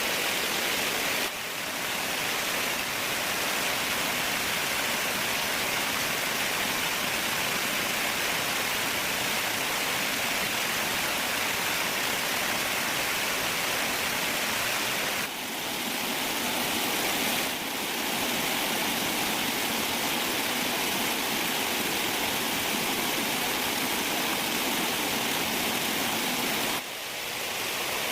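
Steady rushing of running water, an even hiss with a few brief dips in level: about a second in, twice around the middle, and near the end.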